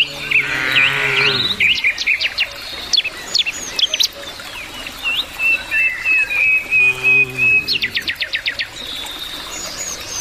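Many small birds chirping and trilling, with cattle lowing twice: a longer moo about half a second in and a shorter one around seven seconds in.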